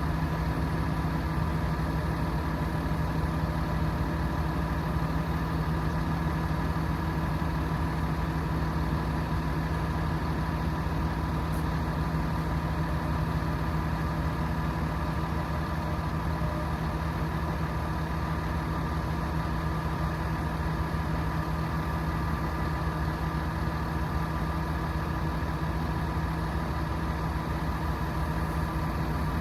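Hino 338 truck's 7.6-litre turbo diesel running steadily at a constant speed, a low rumble with a few steady tones over it.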